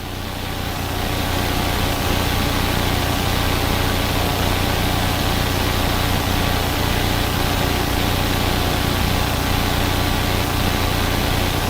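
Steady drone of a helicopter's engine and rotors heard from inside the cabin, a constant low hum under an even rushing noise that holds unchanged throughout.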